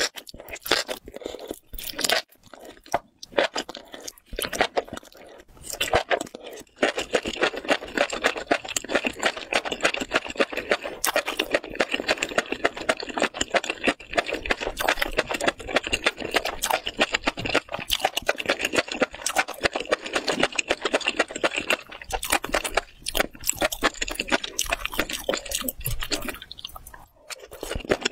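Close-miked chewing and crunching of a mouthful of spicy mala stew with octopus and enoki mushrooms: rapid, crackly mouth clicks, patchy with short pauses at first, then dense and steady, thinning out again near the end.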